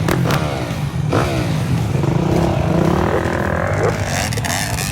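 Several off-road motorcycle engines running among a crowd of riders. One passes about a second in, its pitch falling, and another revs later on.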